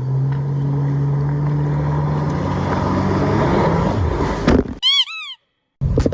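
Jet ski engine running at a steady pitch, then easing off and falling in pitch after about three seconds. Two short swooping tones follow, the sound cuts out abruptly for a moment, and then an engine comes back revving up and down.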